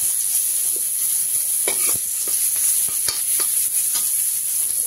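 Chopped onion, garlic and chilli sizzling in hot oil in a metal kadai while a metal ladle stirs them, knocking and scraping against the pan several times.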